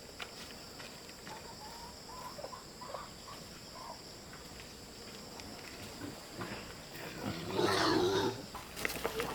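Insects buzzing steadily, with a few faint short calls in the first half and a louder animal call about eight seconds in.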